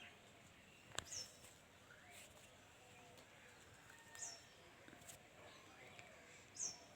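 Faint bird calls: short, high notes that drop quickly in pitch, repeating every two to three seconds, with softer rising chirps in between. A single sharp click comes about a second in.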